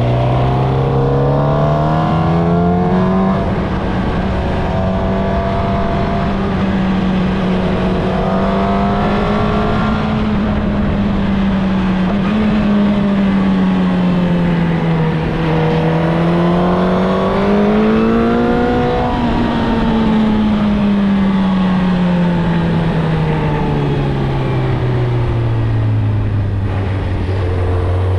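Suzuki GSX-R1000 inline-four engine with its stock exhaust, riding under load. The engine note climbs over the first few seconds and holds, dips and rises again around the middle, then falls away steadily toward the end, over a constant rushing noise.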